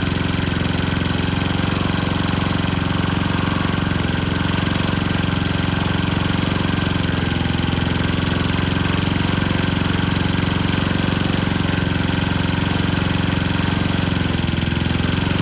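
Honda GCP160 single-cylinder overhead-cam lawn mower engine running steadily with ketchup in its crankcase in place of oil.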